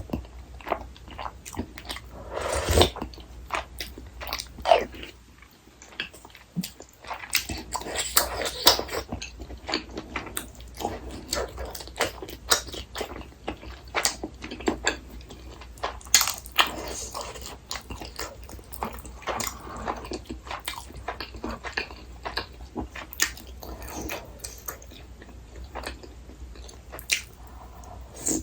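Close-miked eating sounds: a person chewing and biting food, with many short irregular clicks and smacks throughout.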